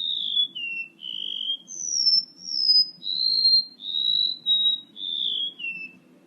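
Lure-call recording of a male rementuk laut bird: a run of clear whistled notes, several gliding down in pitch. The notes step down, jump to a higher pair in the middle, then repeat the opening pattern, over a faint low hum.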